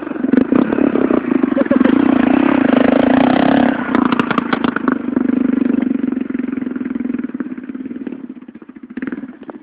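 Motocross bike engine running hard, loudest a couple of seconds in, then dropping off about four seconds in and fading away.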